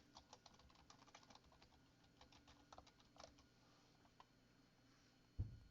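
Faint typing on a computer keyboard: a quick run of keystrokes for the first second and a half, then a few scattered ones. Near the end comes a single short, low thump, the loudest sound.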